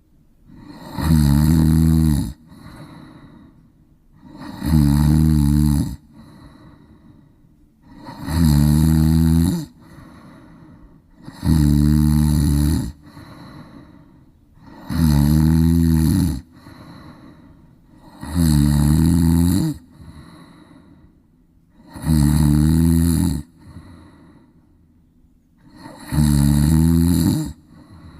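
Golden retriever snoring in its sleep: eight loud snores, about one every three and a half seconds, each lasting a little over a second, with a quieter breath between them.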